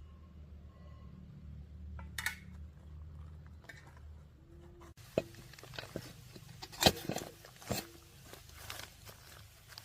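A low steady hum that stops about halfway through, followed by a series of sharp clicks and knocks.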